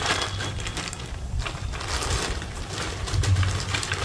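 Irregular rustling and clattering of tent parts being handled: nylon straps and bags pulled out and sorted, over a steady low hum.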